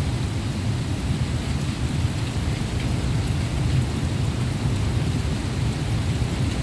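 Thunderstorm: heavy rain with a steady low rumble underneath that carries on without a break.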